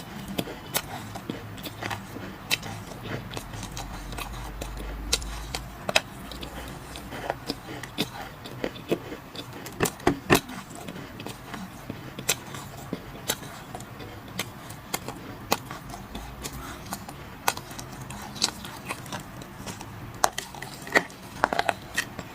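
Dry clay being crunched and crumbled, giving irregular sharp crackles and snaps throughout.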